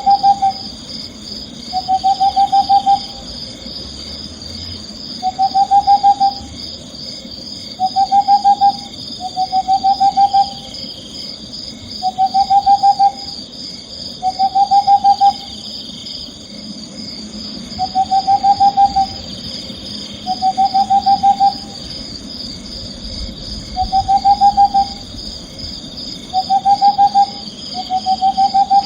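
An owl calling over and over: each call is a quick trill of hoots lasting about a second, repeated every two to three seconds, about a dozen times. Under it runs a steady high chirring.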